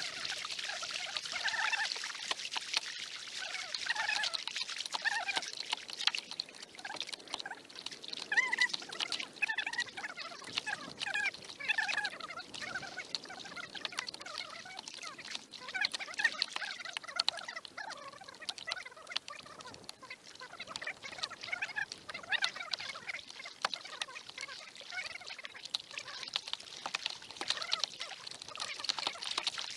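Water dripping and trickling in many small irregular splashes, from a kayak being paddled across a lake.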